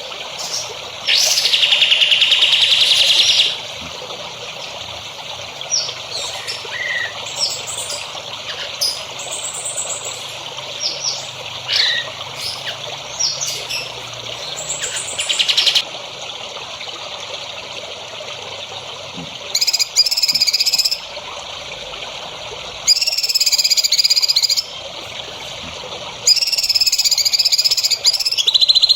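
Songbird singing: bursts of rapid buzzy trills lasting one to three seconds, with short chirps between them, over a steady background hiss.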